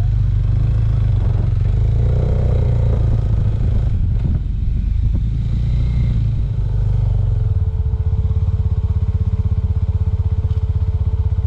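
Small Suzuki Thunder motorcycle's engine running as the bike pulls away and rides on, with a few brief clatters about four to five seconds in and a more even engine beat in the last few seconds.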